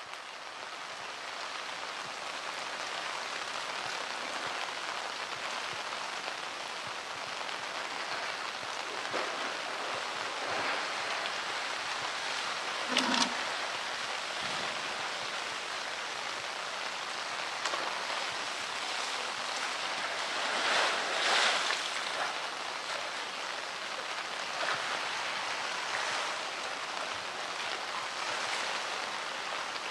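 Heavy rain falling on water and concrete: a steady, even hiss. There is a brief sharp sound about 13 seconds in and a louder burst around 21 seconds.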